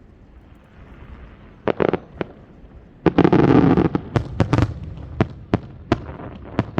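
Aerial fireworks bursting: a few sharp bangs about two seconds in, a loud dense burst about three seconds in lasting roughly a second, then a string of about seven separate sharp bangs.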